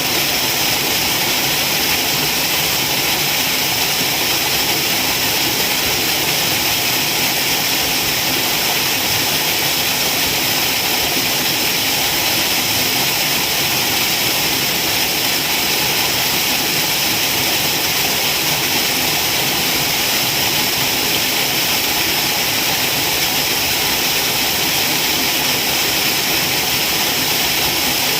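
Waterfall: a steady, unbroken rush of falling water, loudest in its hiss.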